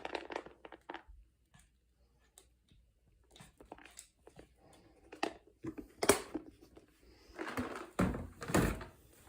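Irregular clicks and knocks of objects being handled, with a sharp knock about six seconds in and a cluster of louder clatters near the end.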